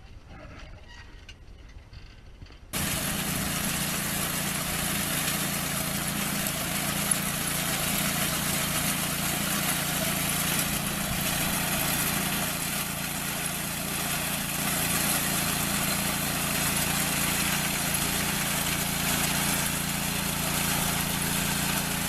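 A machine's engine running steadily with loud, dense mechanical noise, cutting in abruptly about three seconds in after a quieter stretch.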